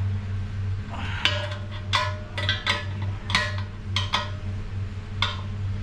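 Irregular sharp metallic clinks and taps, about a dozen of them with a short ringing tone, as a hand tool works at a large nut inside a Ford AOD automatic transmission. A steady low hum runs underneath.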